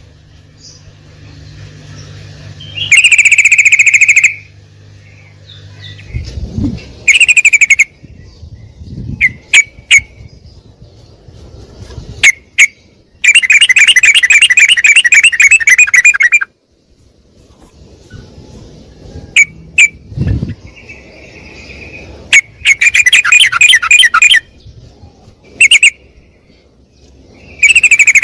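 Yellow-vented bulbul (trucuk) calling loudly in repeated bursts of rapid, bubbling chatter, each one to three seconds long, with single sharp chip notes between them. Two brief low thumps come in, about a third of the way through and again past the middle.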